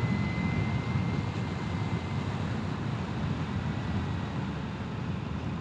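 Steady wind and road rush from riding an Energica Experia electric motorcycle, with a faint high whine held over it.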